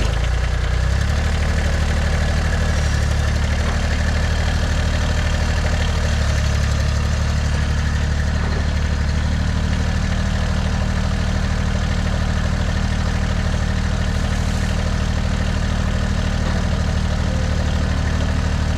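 Diesel garden tractor engine running steadily at a low, even speed just after being started.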